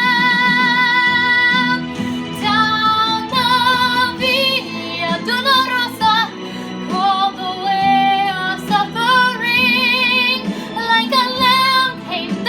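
A woman singing a slow ballad over instrumental accompaniment: a long held note ends about two seconds in, then she sings new phrases with a wide vibrato.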